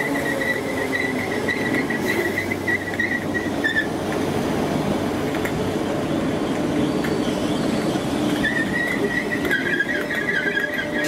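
Merseyrail electric train running past with a steady rumble and rattle and a high-pitched squeal from the wheels or brakes. The squeal drops out about four seconds in and comes back near the end, now in two pitches.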